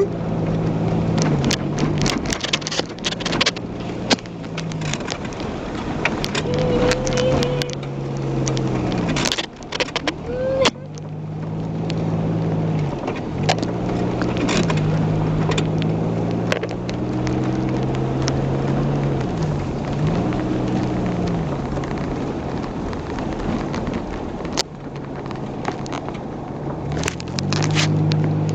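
A 1994 Oldsmobile Cutlass's engine, heard from inside the car, working hard off-road: its pitch drops and climbs back again and again as the throttle comes on and off. Sharp knocks and rattles come through as the car jolts over rough ground.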